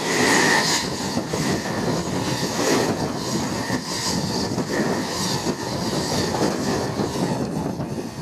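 Stainless-steel electric train passing close by at speed, its wheels clacking over rail joints in a regular beat, with a high thin tone coming and going over the rumble. The last car goes by near the end and the noise drops away.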